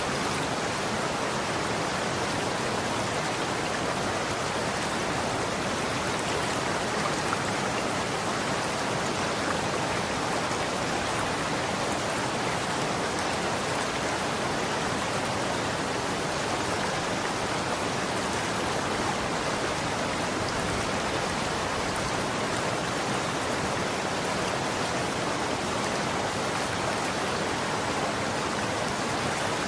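Running water flowing steadily, a dense even rushing with no pauses or changes.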